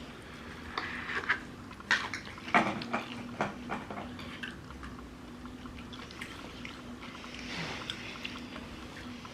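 Close-miked eating of fried chicken: scattered crisp clicks and bites in the first few seconds, then a soft hiss-like noise about six to eight seconds in, over a faint steady low hum.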